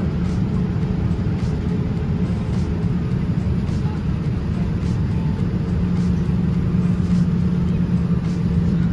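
Steady low rumble and engine drone heard inside an airliner cabin, with a constant low hum.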